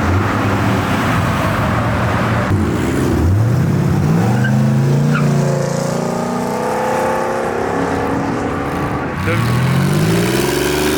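Performance car engine accelerating hard, the engine note climbing steeply about three seconds in and holding high, then climbing again near the end.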